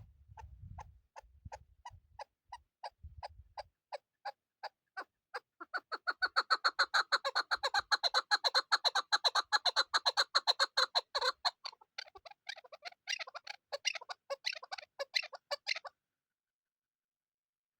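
Chukar partridge calling: a run of short repeated notes, about three or four a second at first, speeding up into a fast, dense chatter, then breaking up and stopping near the end.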